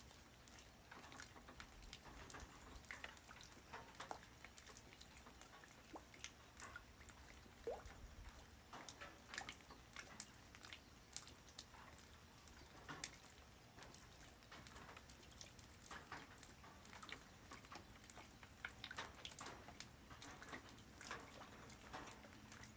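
Light rain falling on the ground: separate drops landing in quick, irregular ticks over a faint hiss.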